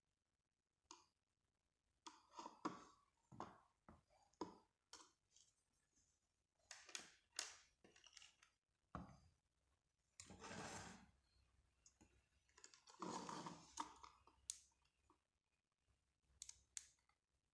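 Objects being handled: scattered clicks and taps, with two longer scraping sounds about ten and thirteen seconds in.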